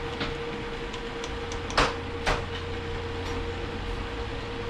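Two sharp metal knocks about half a second apart, with a few lighter clicks, as the front pump of a Ford AOD transmission is worked down into the case over its oil rings. A steady hum runs underneath.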